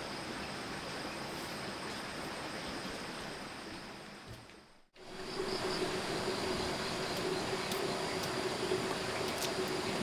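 Steady outdoor background noise with a faint high steady tone. It fades out just before halfway, then comes back with a steady low hum added and a few light clicks near the end.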